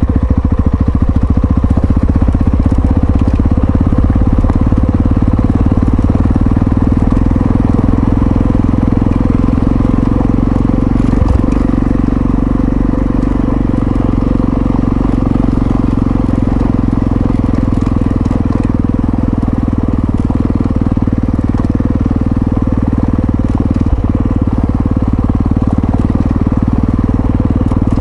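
Single-cylinder engine of a Yamaha XT660Z Ténéré motorcycle running steadily while the bike is ridden, with no marked revving or gear changes.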